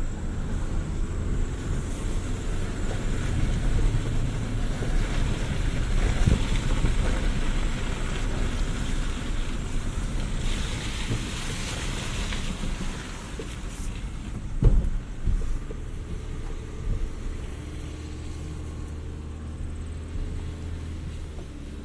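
Jeep Renegade driving slowly over off-road terrain, its engine a steady low rumble. A stretch of hiss comes about ten seconds in, and a single sharp thump about fifteen seconds in, followed by a few smaller knocks.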